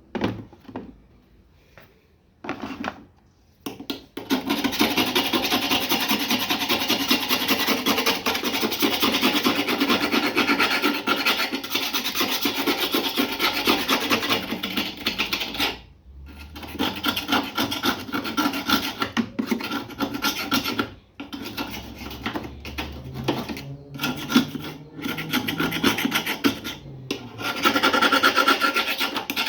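Fast, continuous abrasive scrubbing on a rusty washing machine part. It starts with a few short strokes, then runs on densely, with a few brief pauses.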